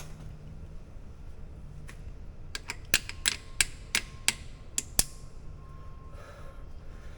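A quick run of about ten sharp metallic taps and clicks over two or three seconds, as the brake pad retaining pin and clip are worked into a rear disc brake caliper.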